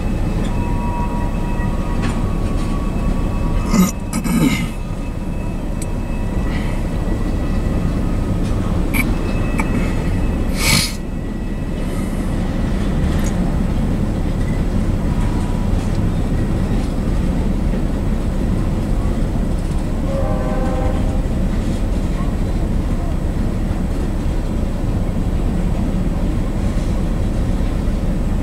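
Diesel-hauled freight train rolling by at a grade crossing, a steady heavy rumble of locomotives and cars passing. Two sharp metallic clanks come about four and eleven seconds in.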